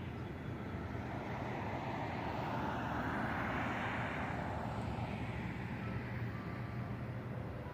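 A vehicle passing by on the street: road and engine noise swells to a peak about three to four seconds in, then fades, over a steady low traffic hum.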